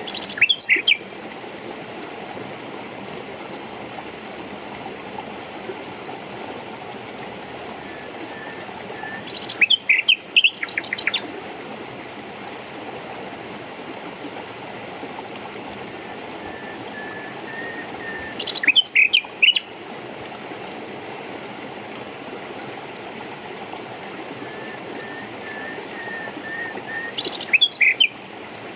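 A songbird sings a short burst of rapid chirping notes four times, about every nine seconds, over the steady rush of a stream.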